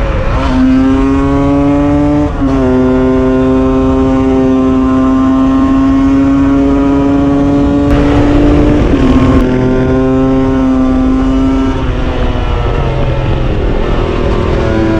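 Husqvarna SM 125 two-stroke single with a Scalvini exhaust, pulling hard through the gears: the pitch drops suddenly at upshifts about half a second, two and a half and nine seconds in, holding high and creeping up between shifts. The engine eases off about twelve seconds in and revs up again near the end.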